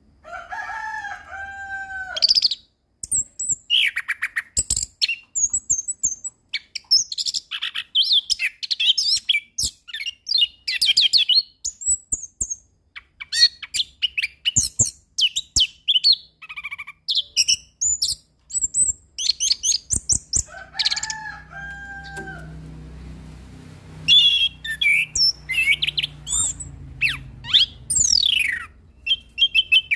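Chestnut-capped thrush (anis kembang) singing a fast, varied song of high whistles, slurs and trills, packed with quick notes. A lower, slurred whistled phrase comes near the start and again about 21 s in, and a faint low hum sits under the song in the latter part.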